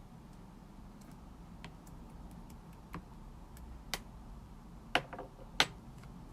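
Light clicks and taps at irregular intervals, sharper and louder about four, five and five and a half seconds in, over a faint steady hum.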